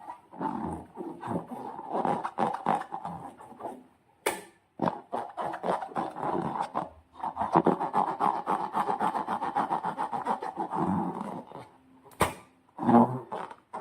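Slime and balloon rubber being squeezed and worked by hand: runs of rapid wet clicks and rubbing squeaks. There are short breaks about four and seven seconds in, and a single sharp snap about twelve seconds in.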